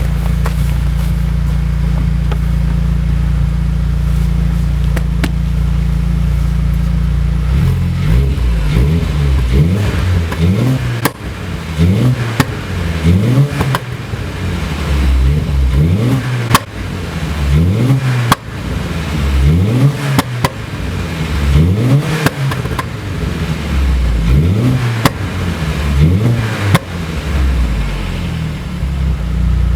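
Turbocharged Audi 1.8T four-cylinder, stroked to 2.0 litres, idling steadily for about eight seconds, then revved in repeated short blips. Sharp exhaust pops and crackles sound as the revs fall.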